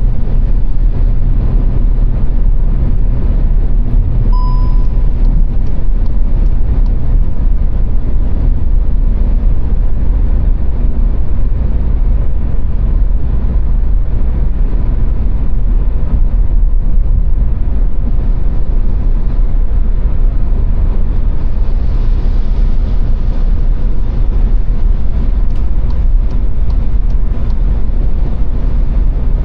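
Steady low rumble of car road and engine noise at autobahn speed. A short beep sounds about four seconds in.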